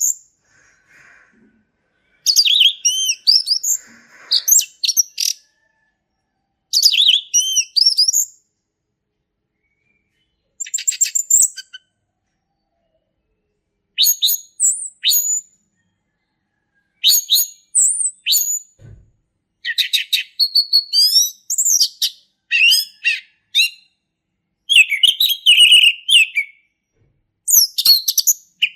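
Male orange-headed thrush singing: phrases of rapid, sweeping whistled notes, each lasting one to a few seconds, separated by short pauses that grow shorter in the second half.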